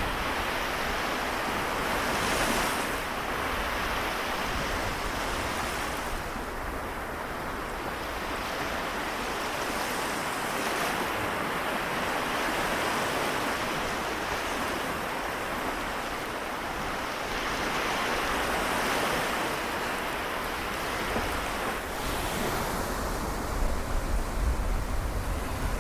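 Sea waves washing onto the shore, the surf swelling and easing every few seconds. A low rumble comes in near the end.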